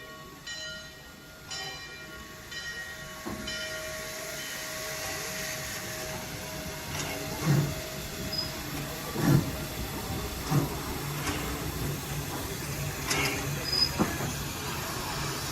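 Steam locomotive hissing steam, then starting to move with slow exhaust chuffs that come closer together near the end.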